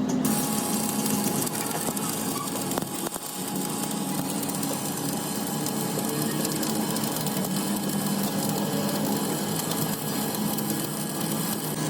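Steady, continuous buzzing and hissing of a metalworking machine at work on a steel truck rim, holding level without a break.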